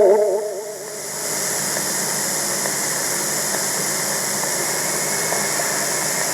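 Steady hiss and background noise of an old recording, with no voice or pitched sound in it.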